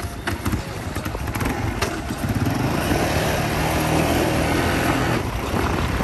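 Small motorcycle engine running while riding over a rough dirt road, with scattered knocks and rattles in the first couple of seconds. The engine grows louder about two seconds in and then holds steady.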